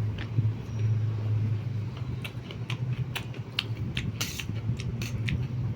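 Mukbang eating sounds: a scatter of short sharp clicks and crunches from chewing and from the spoon on the plate, over a low steady rumble that fades after the first couple of seconds.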